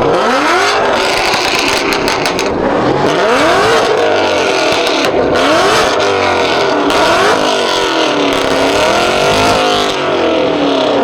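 Car engine revving hard and repeatedly, its pitch climbing and dropping every second or two, over a steady rushing noise.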